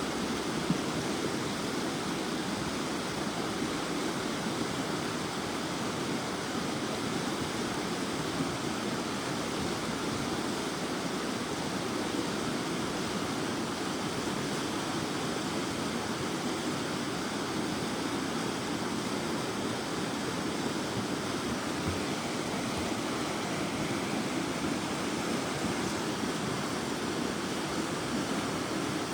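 River in flood rushing steadily, swollen by runoff from heavy thunderstorms: an unbroken roar of fast-moving water.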